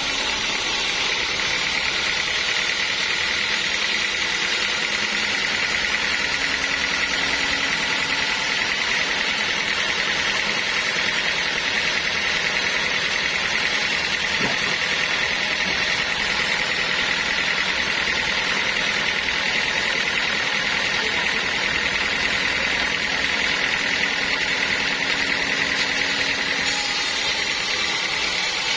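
Sawmill machinery running steadily, a constant mechanical drone with a high whine that holds the same pitch throughout.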